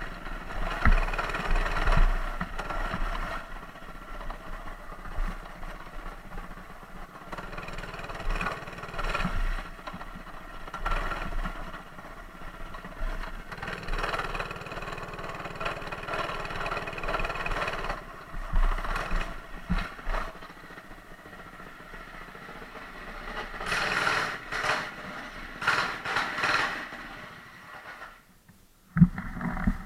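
Mini bike's small engine running, mixed with rattles and knocks from the bike. The sound drops out briefly near the end.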